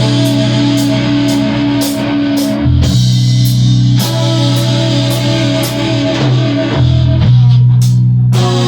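Rock band playing an instrumental passage: guitar over bass and drum kit, with cymbals struck on a steady beat.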